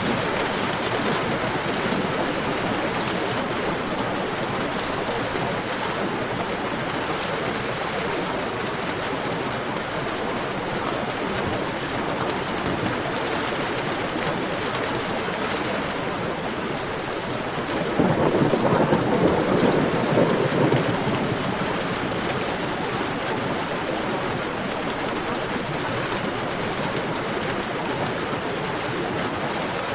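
Heavy rain falling steadily, with a rumble of thunder that starts suddenly about two-thirds of the way through and dies away over about three seconds.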